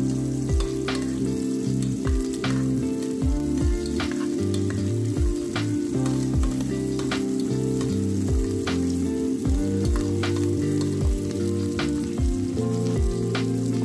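Onion and garlic sizzling in hot oil in an aluminium pot while a metal spoon stirs them, with background music carrying sustained low notes and a steady beat.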